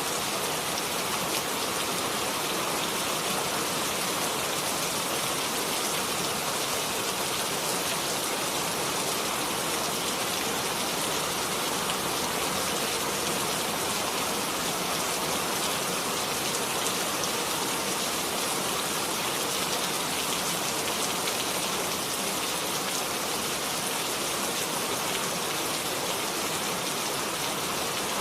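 Steady rain falling and pattering on surfaces, an even hiss of many drops with no change in strength.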